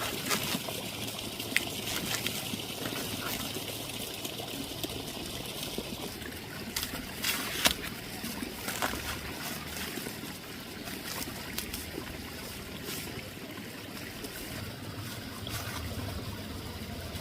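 Water trickling, with scattered sharp clicks and knocks over it, the loudest about seven and a half seconds in.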